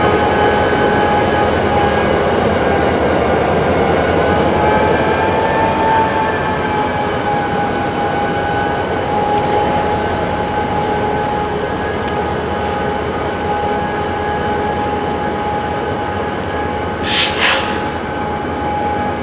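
Railroad cars rolling through the yard over a steady rumble, with a sustained high-pitched wheel squeal whose pitch wavers slightly. Two short, sharper squeals come near the end.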